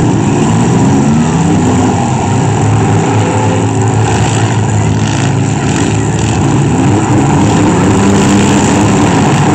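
Engines of several demolition-derby minivans, pickups and SUVs running loud and revving up and down, the pitch rising and falling as the cars drive and push against one another.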